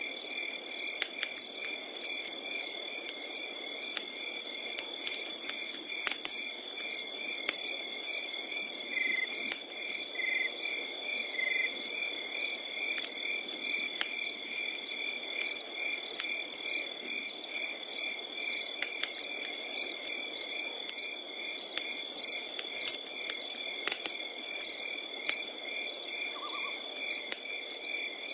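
Crickets chirping in an even rhythm, about two chirps a second, over a continuous high insect trill. Sharp pops and crackles of a burning wood campfire are scattered through it.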